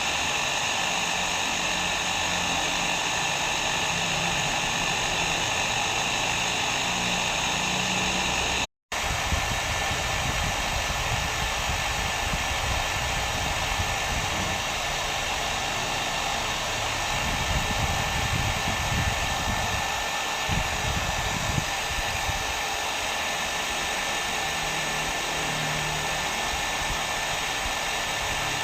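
Hair dryer blowing steadily: an even, continuous whooshing hiss with a faint steady whine in it. The sound drops out for a split second about nine seconds in, then carries on unchanged.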